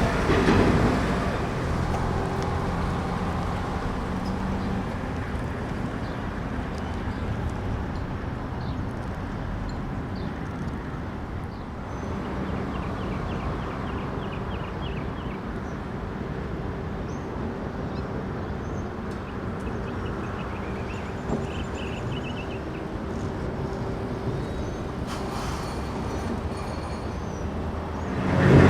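Streetcar running past on the rails and fading away in the first couple of seconds, followed by steady city street traffic with a low hum and a few faint chirps.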